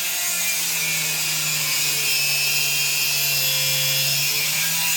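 Angle grinder cutting through steel, running steadily under load.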